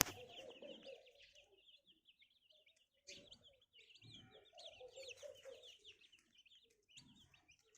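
Day-old broiler chicks peeping: a faint, continuous run of quick, high chirps, many to the second, with a few soft bumps in the middle.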